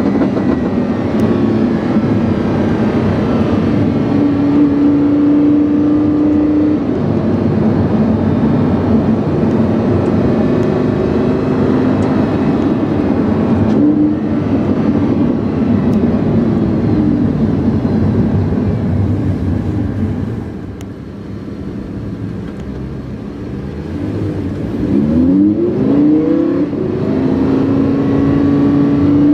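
Lamborghini Huracán's V10 engine with a PowerCraft aftermarket exhaust, heard from inside the car while driving: a steady engine note that shifts pitch as revs change, easing off and going quieter for a few seconds past the two-thirds mark, then a quick rise in revs before it settles back to a steady note.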